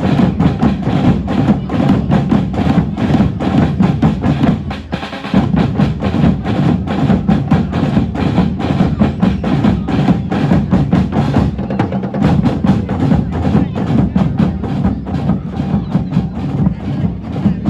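Percussion band of drummers playing a fast, dense, continuous rhythm together, with a brief drop in loudness about five seconds in before the groove comes straight back.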